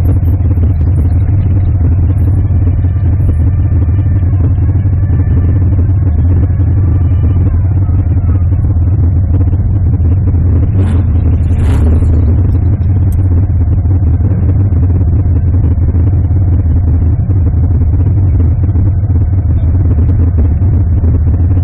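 Car engine and exhaust running with a loud, steady low rumble, with a short hiss about halfway through.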